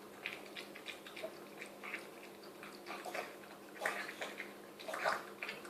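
A Chihuahua eating chicken soup from a bowl, snarfing it down with rapid, irregular wet slurps and smacks, several a second, a few louder ones near the end.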